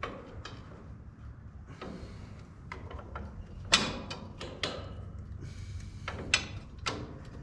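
Metal parts of a windrower clanking and knocking as a part that won't line up is worked into place by hand: a run of sharp knocks, the loudest about halfway through and two more near the end.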